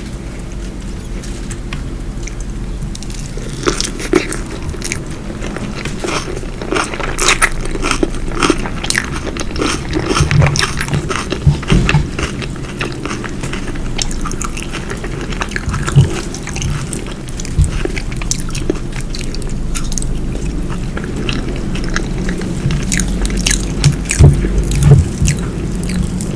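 Close-miked chewing and biting of food, irregular wet mouth clicks and crunches that begin about three seconds in.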